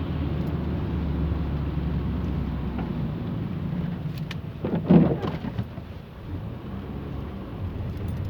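Inside a car driving on a wet road in the rain: a steady low drone of engine and tyres with a hiss of wet road and rain. About five seconds in there is a short loud thump, after which the drone eases off for a moment.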